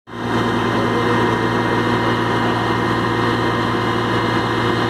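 A large engine running steadily at idle, with a steady whine above its hum.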